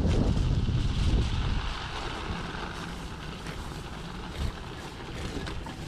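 Wind buffeting the microphone while riding an electric bike over snowy streets: a heavy low rumble that eases off about two seconds in, leaving a softer steady rush.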